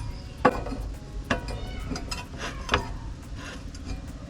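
Metal parts clinking and knocking as sheet metal is worked, four or so sharp knocks each with a brief ring, over a steady low rumble.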